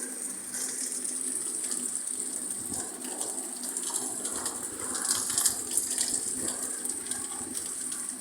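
Heavy rain with water gushing and splashing in a steady hiss, with small sharp splashes scattered through it.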